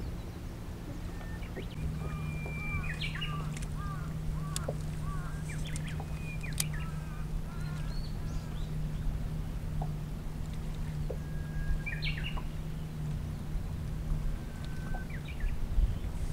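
Birds calling in short chirps and whistles, several arched calls in quick runs, over a steady low hum.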